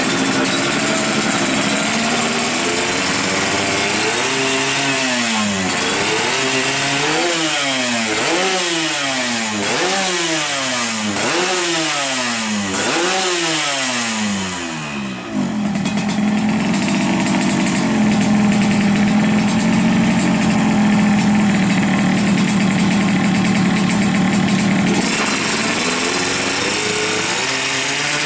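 Yamaha RX-King two-stroke single-cylinder drag bike engine running, then blipped about seven times in quick succession, each rev rising and falling in pitch, before it settles back into a steady fast idle.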